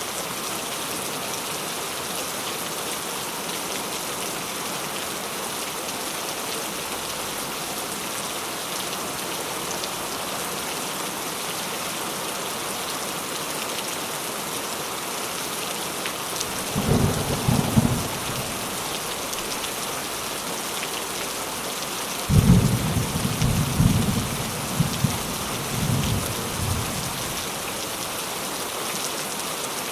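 Steady rain falling, a continuous even hiss, with deep rolls of thunder rumbling about halfway through and again in a longer, uneven roll later on.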